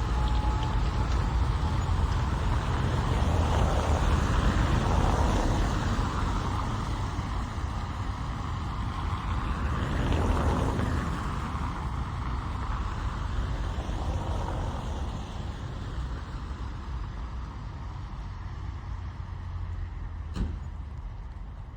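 Rain heard from inside a car, over a steady low rumble, with the hiss of passing traffic on the wet road swelling twice and slowly fading. A single sharp click comes near the end.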